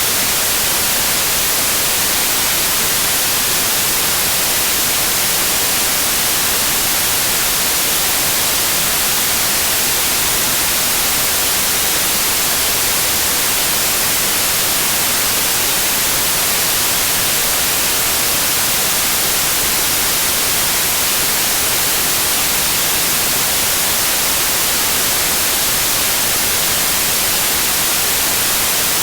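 Steady white noise: an even, unchanging hiss, brightest in the high treble, with no rise or fall.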